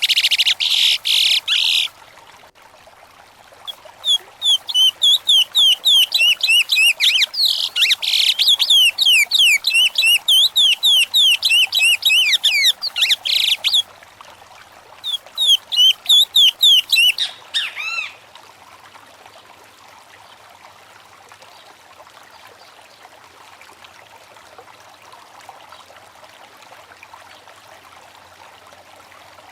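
A songbird singing loud, fast phrases of rapid, quick-falling high notes, in bursts broken by short pauses; the song stops about eighteen seconds in. A faint, steady stream of running water sounds underneath and is left alone afterwards.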